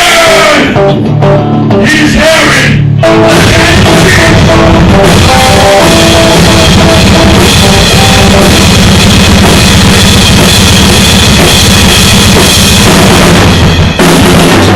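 A rock band playing at full volume in rehearsal, a drum kit and electric guitars together, with a brief break near the end.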